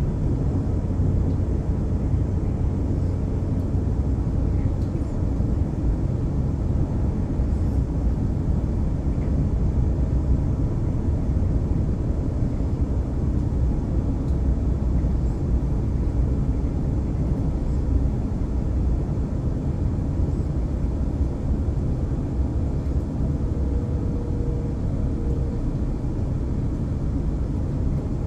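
Passenger train running at speed, heard from inside the carriage: a steady low rumble of wheels on the track.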